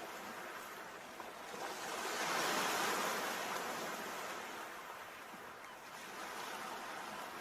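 Sea waves breaking on a shore: one wave swells about two seconds in, peaks and washes back out.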